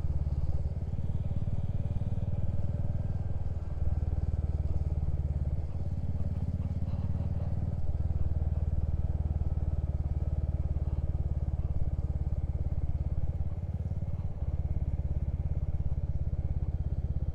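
Motorcycle engine running under way, a steady low rumble whose note changes several times.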